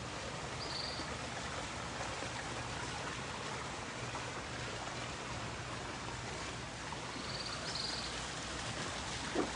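Flowing water from a stream, a steady rushing sound, with two brief high chirps about a second in and near the end.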